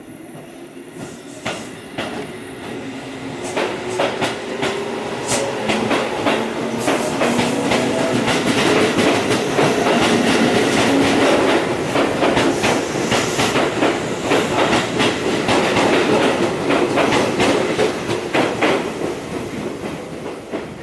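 Tobu Railway train running through the station, its wheels clicking over rail joints under a steady motor hum. The sound builds for several seconds, stays loud for the middle stretch, then eases toward the end.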